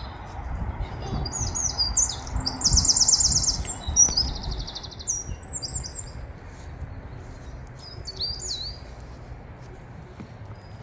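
Songbird singing: a varied run of high chirps with a fast, even trill about two seconds in, and a shorter phrase near the end. Low rumbling thumps sit underneath.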